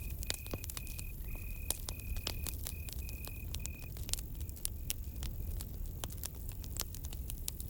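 Campfire crackling with frequent sharp pops over a low steady rumble. A cricket chirps at one steady high pitch, about two chirps a second, fading out about four to five seconds in.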